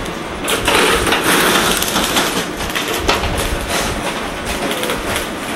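Platform noise beside a stationary 583-series electric train: a steady rushing hiss with scattered clicks and clatter, loudest in the first half.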